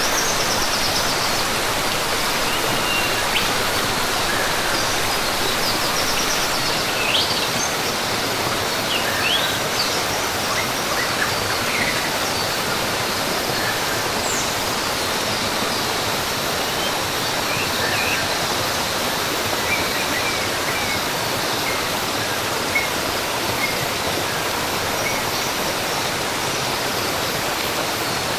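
Steady rush of a waterfall or stream, with scattered short chirps and whistles of birds above it, more of them in the first half.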